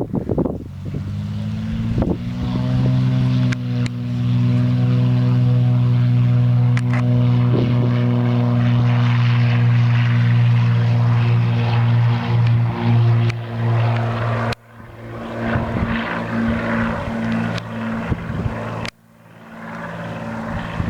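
A light propeller plane's piston engine running at high power, its pitch climbing slightly about two seconds in and then holding steady. The sound drops off abruptly twice in the last third.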